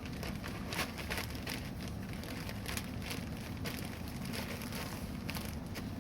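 Wood campfire crackling, with irregular sharp pops and snaps, several a second, over a steady low rush.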